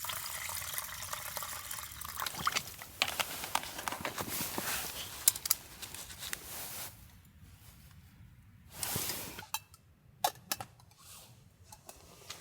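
Water pouring and trickling, followed by scattered small clicks and handling noises that die down about halfway through, with one short rush of noise near the end.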